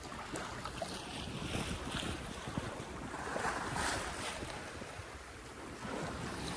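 Wind buffeting the microphone and waves washing past a Cal 40 sailboat under way on the open ocean, with a louder rush of water about three to four seconds in.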